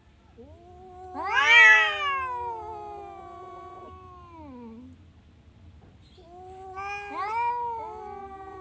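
Domestic cat giving two long, drawn-out meows. The first, louder one rises in pitch and then slides slowly down; the second begins about two seconds after it ends.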